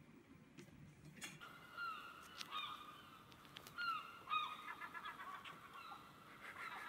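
A bird calling in a series of short, downward-slurred notes, in clusters from about one and a half seconds in and again near the end, with a few sharp taps among them.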